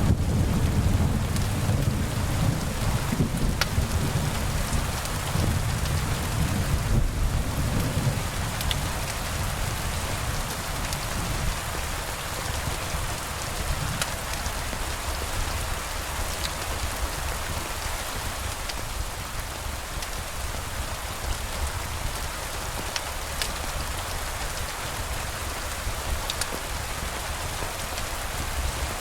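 Steady rain hissing, with a low rumble of thunder through the first several seconds that then fades away, leaving the rain alone with scattered small ticks of drops.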